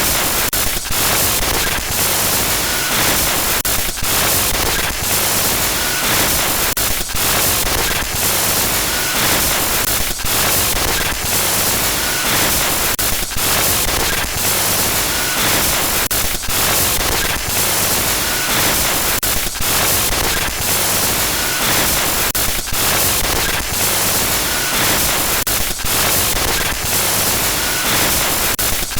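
Loud, steady static hiss like white noise, broken by brief irregular dropouts that give it a stuttering feel: a digital glitch-noise horror sound effect.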